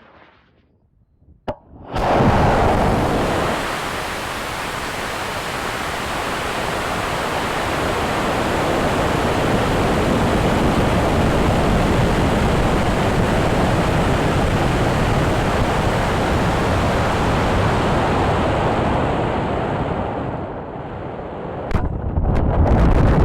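High-power model rocket motor lighting with a sudden loud rushing noise about two seconds in, after a single sharp click. The rush holds steady for many seconds, dips briefly near the end and then comes back abruptly.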